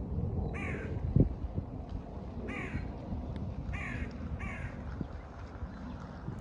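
A bird giving four short, harsh cawing calls over a steady low rumble, with one low thump about a second in.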